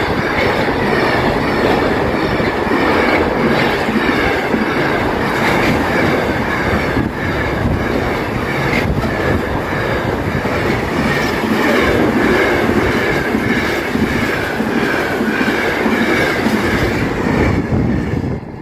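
A freight train's wagons rolling past at close range, with a steady rattle and clatter of wheels on the rails and a faint high wheel squeal. The sound drops away suddenly near the end as the last wagon clears.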